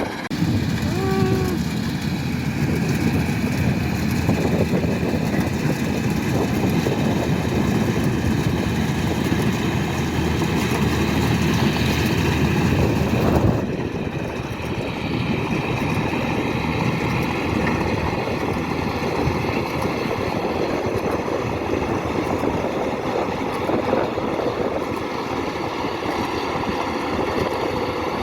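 Kubota DC-105X combine harvester's diesel engine and machinery running steadily at working load. About a second in there is a short pitched squeak, and about halfway through the sound drops a little and loses some of its low rumble.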